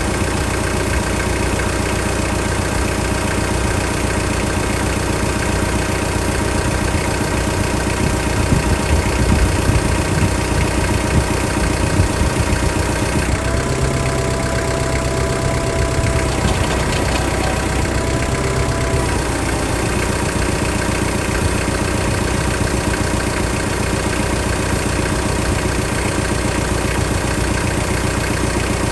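Engine running steadily. About halfway through, a higher tone rides over it for around five seconds.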